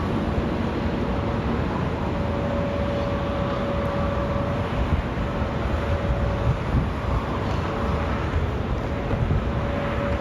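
Airbus A350-941's Rolls-Royce Trent XWB turbofan engines at takeoff power: a steady, heavy rumble with a steady whine held over it.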